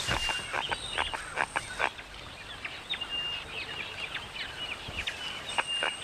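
Birds calling in a run of short, harsh, rapid calls. Thin, steady high-pitched tones drone intermittently behind them.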